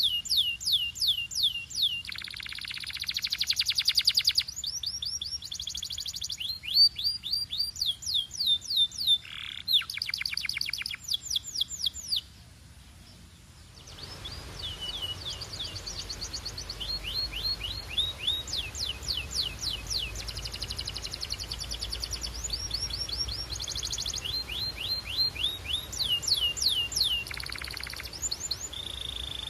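Domestic canary singing a long song of rapid trills, each a fast run of repeated down-slurred whistled notes, switching from one trill type to the next. It breaks off for a moment about twelve seconds in, then carries on.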